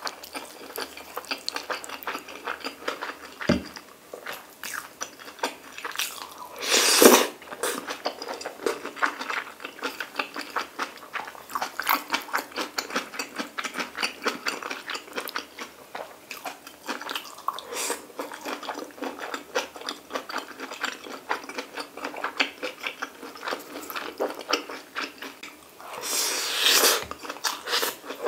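A person chewing and eating pork belly, stir-fried kimchi and rice balls: a run of wet, sticky mouth sounds and small clicks. Two louder, longer rushes of sound break in, about a quarter of the way in and again near the end.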